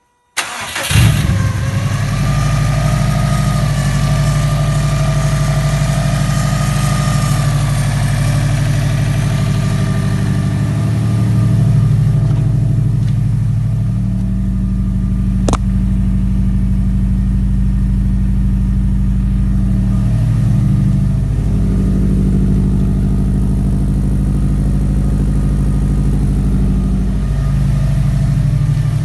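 Subaru Impreza WRX STI's turbocharged flat-four engine starting after a very brief crank and settling into a steady idle. A high whine over the idle fades away during the first several seconds, and a single sharp click comes about halfway through.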